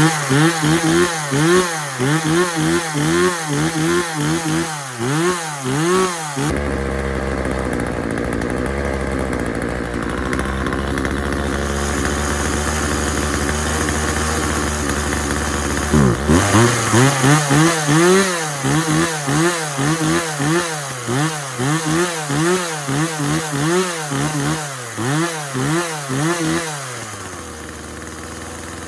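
Husqvarna 136 two-stroke chainsaw engine being blipped again and again, its pitch rising and falling about twice a second. About six seconds in it settles to a steady run for some ten seconds, then is revved in quick blips again, and near the end drops to a lower, quieter idle. The saw is running freshly tuned, with its low-speed carburetor setting being adjusted.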